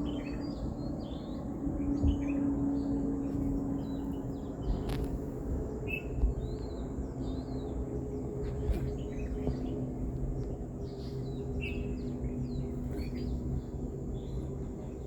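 Many small birds chirping, with short overlapping calls throughout, over a steady low hum and rumble.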